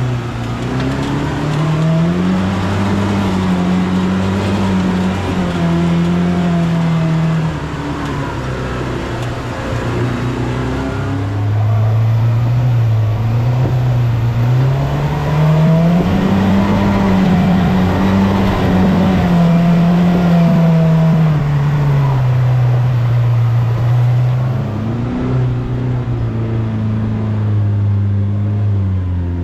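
Polaris RZR Pro R side-by-side's four-cylinder engine revving up and easing off in long swells while working through rough, washed-out trail, settling lower near the end.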